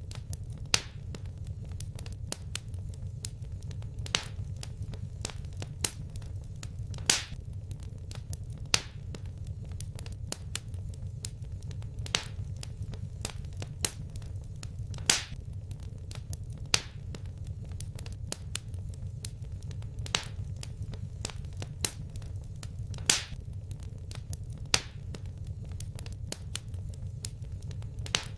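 Wood fire crackling in a fireplace: sharp, irregular pops every second or two, a few much louder, over a steady low rumble of the burning fire.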